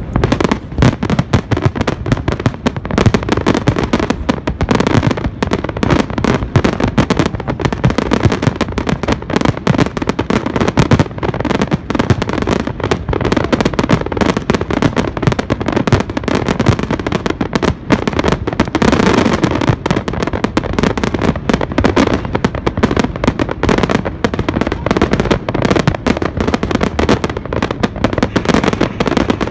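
Fireworks display: a dense, continuous barrage of cracks and bangs, many per second.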